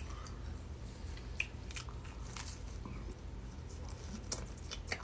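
A person biting and chewing food close to the microphone: scattered small wet clicks and crunches over a low steady hum.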